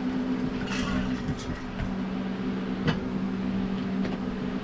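A steady low machine hum with a few small sounds over it: a short hiss about a second in and a sharp click near three seconds.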